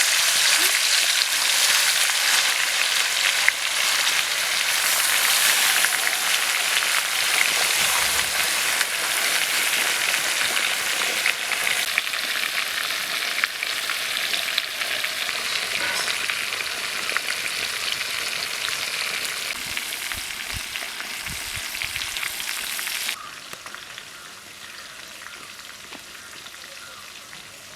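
Marinated whole chicken sizzling loudly in hot oil in a pan. The sizzle drops suddenly to a much quieter hiss about 23 seconds in.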